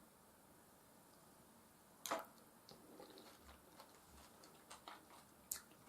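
Quiet close-up chewing of soft food (mashed potatoes and beef stew), with small wet clicks and smacks of the mouth. A sharper click comes about two seconds in and another near the end.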